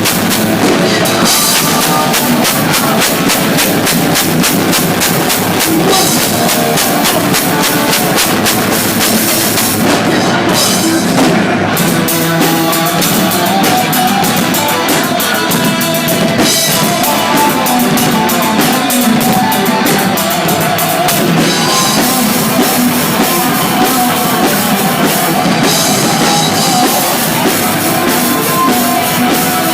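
Loud rock music: a band with a full drum kit and bass drum keeping a steady beat under guitar.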